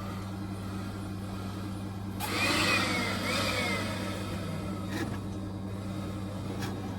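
Vacuum cleaner motor running with a steady hum. About two seconds in, a louder rush of air lasts a couple of seconds, with a whistle that rises and falls. The hoover is giving poor suction, as the engineer complains.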